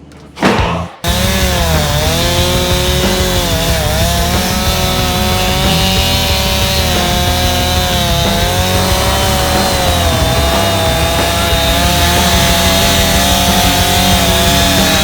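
Chainsaw running at high revs while cutting through fallen tree wood, its pitch dipping briefly a couple of times early on as the chain bites into the cut.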